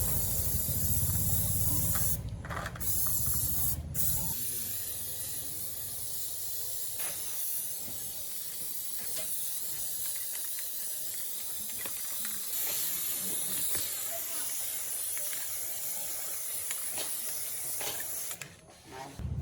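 A steady high-pitched hiss of a spray or air jet, with a low rumble underneath for the first four seconds and a few faint clicks.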